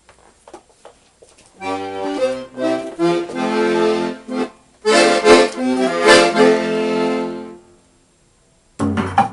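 Accordion (sanfona) playing chords over low bass notes in two short phrases, a brief pause, then playing again near the end. A few faint clicks come before the first phrase.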